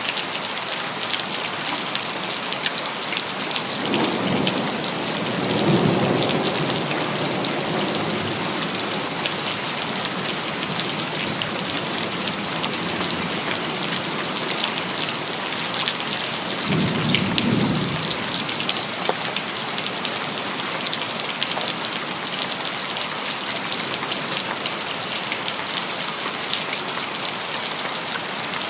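Steady heavy rain pattering on hard surfaces, with rolls of thunder twice: a longer rumble about four seconds in and a shorter one around seventeen seconds in.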